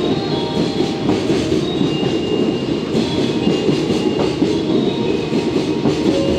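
Freight train of container wagons running past on the adjacent platform track, wheels clacking over the rail joints in a continuous loud rumble. Short high-pitched wheel squeals come and go.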